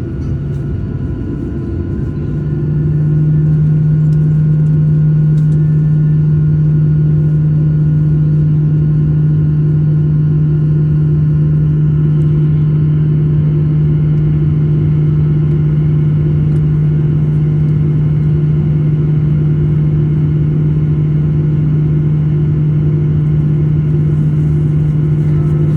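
Airliner engine and cabin drone heard from inside the cabin: a steady low hum that grows louder about two to three seconds in, then holds steady.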